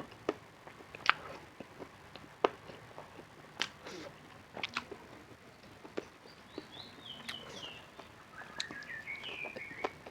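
Close-miked eating sounds: scattered sharp crunches and chewing clicks. A run of high, falling chirps comes in over the second half.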